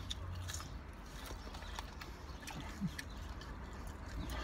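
A person chewing crispy seasoned french fries, with scattered crunches and small mouth clicks, and a short low 'mm' a little under three seconds in. A steady low hum runs underneath.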